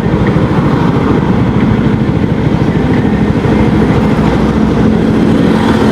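Yamaha XMAX 250 scooter's single-cylinder engine running, with a dense, loud, low rumble. A steady hum comes in about halfway through.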